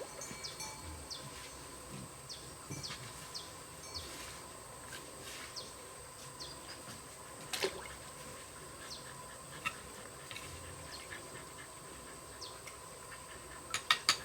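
Quiet rural ambience with scattered short, high chirps from birds. There is an occasional light knock, the clearest about seven and a half seconds in.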